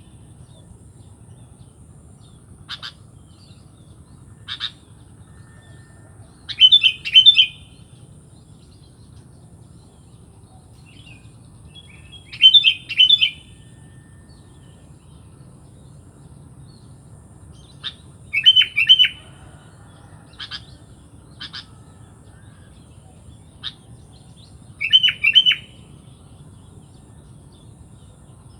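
Sooty-headed bulbul (kutilang) calling: a quick bright phrase of three or four notes about every six seconds, with single short chips between the phrases, over a faint low hum.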